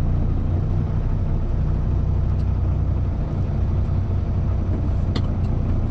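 Kenworth T680 semi-truck's diesel engine idling with a steady low hum, with a few faint clicks later on.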